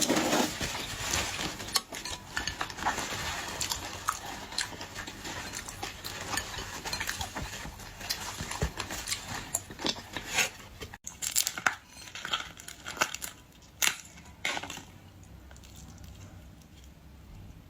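Boiled shrimp being handled and peeled by hand: shells crackling and snapping, with small clicks and light clatter against a dish. The crackle is dense for the first half and thins to scattered clicks later.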